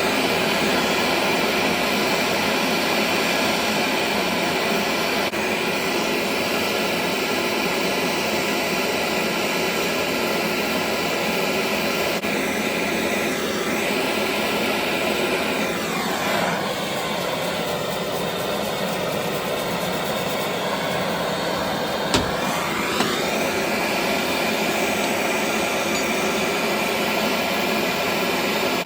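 A heating tool running steadily with a continuous loud rushing noise, warming seized vaporiser fittings to free them. Its sound shifts briefly in character midway as it is moved about.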